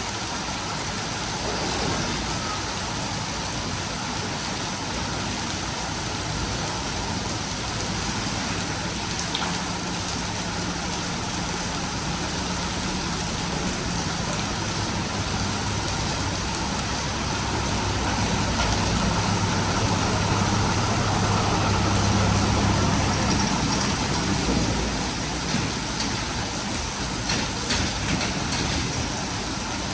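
Heavy rain pouring steadily. A low engine hum rises under it from about a quarter of the way in, grows loudest past the middle and fades out late on. A few sharp ticks come near the end.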